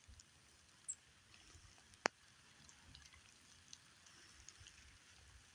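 Near silence with faint scattered ticks of a squirrel nibbling corn kernels, a brief high chirp about a second in and one sharp click about two seconds in.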